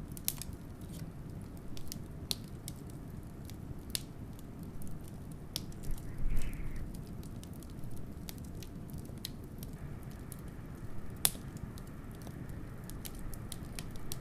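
Wood fire crackling with scattered sharp pops, over a steady low rumble of wind. A louder soft flare about six seconds in and one sharp pop about eleven seconds in stand out.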